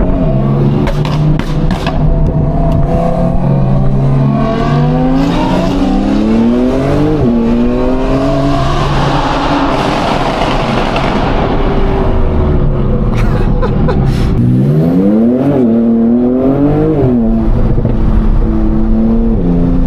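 Porsche 911 Turbo S and straight-piped Audi R8 V10 accelerating hard together, engine notes climbing through the gears. The pitch drops at upshifts about seven seconds in and again near the end, with a stretch of rushing exhaust and wind noise in between.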